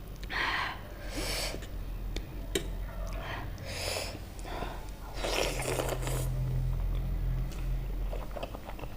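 Close-miked eating of spicy ramen noodles: chewing with small wet clicks, broken by several short airy rushes of breath or slurping. A low steady hum sits underneath.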